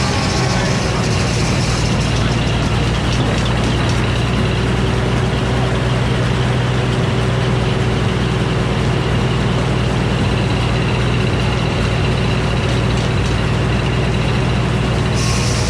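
Old Frick circular sawmill running loud and steady while sawing a poplar cant into boards, over a constant low engine drone. Near the end the higher hiss drops away.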